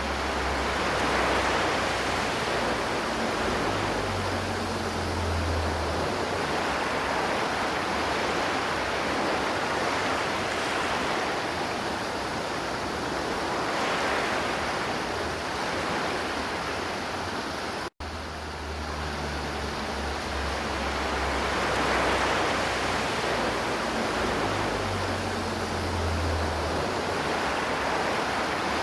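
River water flowing steadily, an even rushing sound. About two-thirds of the way through it cuts out for a split second, where the recording loops back on itself.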